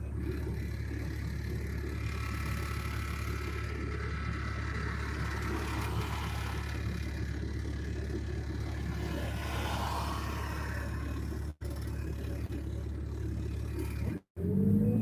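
Hydraulic excavator's diesel engine running at a steady pitch while it works, with a low, even hum throughout. The sound cuts out briefly twice near the end.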